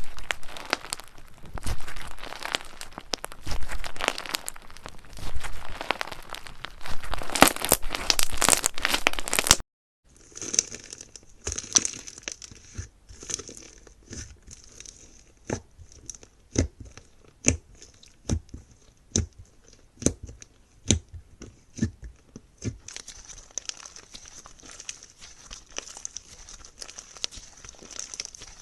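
Slime being squeezed and pressed by hand: dense crunchy crackling for the first ten seconds, then, after a short break, a gentler stretch of separate sharp pops and clicks about once a second.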